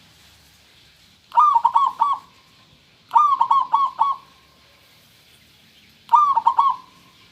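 Zebra dove (perkutut) cooing: three short phrases of quick staccato notes, each under a second long and a couple of seconds apart.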